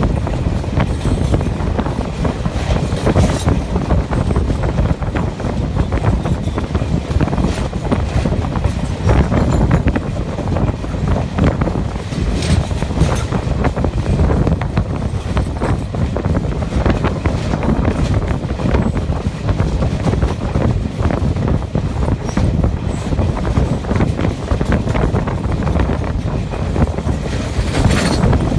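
Howrah Mail express train running steadily over a river bridge: a continuous rumble of wheels on rails with scattered faint clicks, and wind on the microphone.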